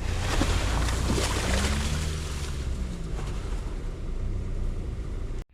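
Off-road vehicle engine running under load while a stuck SUV is pulled out, with a loud rushing noise over it. It cuts off abruptly at the end.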